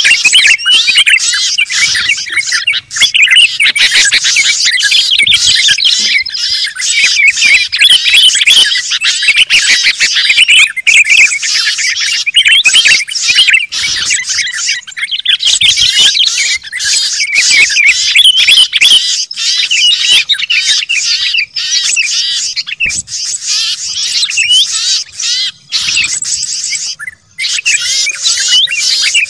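A dense, loud chorus of many small songbirds chirping and twittering at once, rapid high calls overlapping without a pause, with only a couple of brief lulls near the end. This is a bird-lure (pikat) recording of 'noisy birds', played to draw wild birds down.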